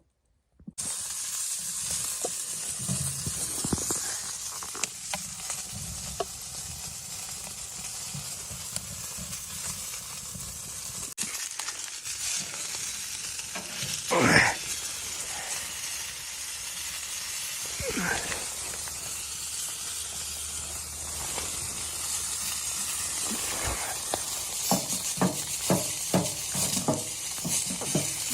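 Food frying in a pan with a steady sizzle, broken by a couple of louder scrapes of a utensil and a run of quick clicks near the end as it is stirred.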